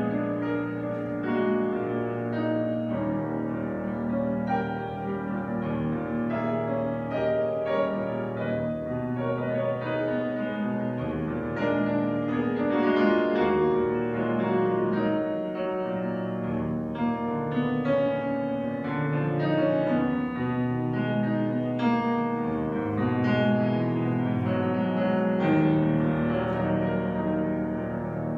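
Solo piano playing classical music: a continuous passage of many overlapping notes.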